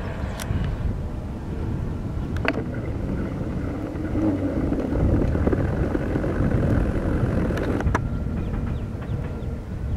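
A passing train, most likely the electric-hauled Chennai–Prasanthi Nilayam Express: a steady rumble of wheels on rails that swells toward the middle, with a few sharp clicks.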